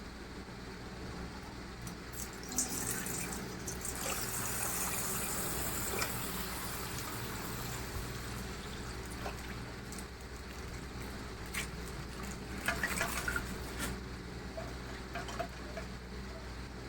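Coloured water pouring and splashing out of a popped plastic ice-pack bag. It starts a couple of seconds in, is fullest for about five seconds, then trickles off. Scattered small clicks and crinkles of the plastic follow.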